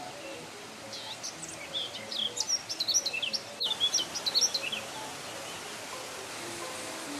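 Steady rush of a forest waterfall, with a small songbird singing a rapid, twittering run of high chirps from about a second in until a little before the five-second mark.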